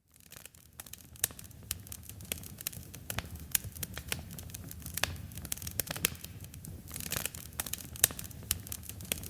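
Campfire burning, fading in from silence: a low steady rumble of the flames with wood crackling and popping several times a second, a few pops louder than the rest.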